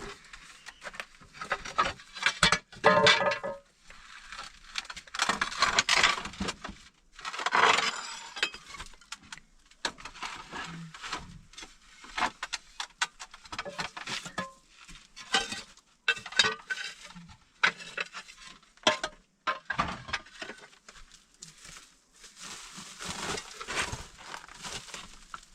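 Irregular clattering, knocking and crunching of hard debris being broken and moved, as in hand demolition of an old house, with louder bursts of clatter every few seconds.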